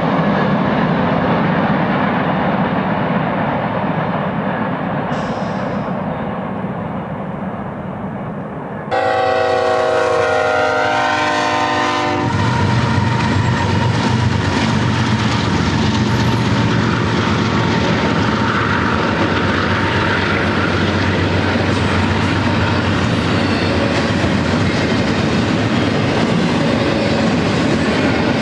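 Freight train wheels rolling steadily past on the rails behind a double-stack intermodal train. About nine seconds in, a diesel locomotive's air horn suddenly sounds a chord for about three seconds. Then GE diesel locomotives and double-stack well cars go by in a heavy low rumble with steady wheel-on-rail noise.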